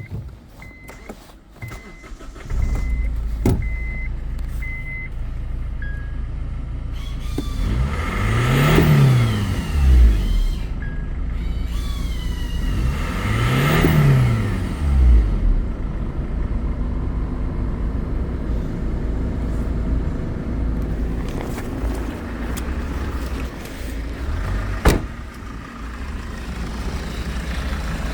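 Honda 2.2 i-CTDi four-cylinder turbodiesel (N22A2) starting about two and a half seconds in after a run of short electronic beeps, then idling. It is revved twice, pitch rising and falling each time, then settles back to a steady idle. There is a single sharp click near the end.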